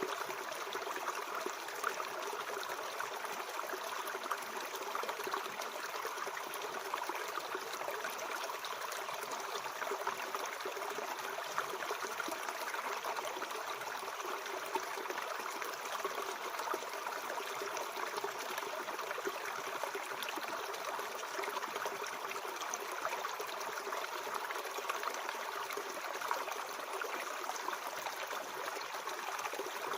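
Mountain stream flowing over rocks, a steady burbling and trickling of water.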